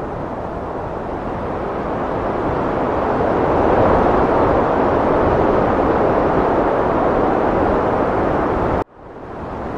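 Heavy wind blowing in a steady rush, swelling stronger about four seconds in. Near the end it cuts out abruptly and fades back in, like a loop joint.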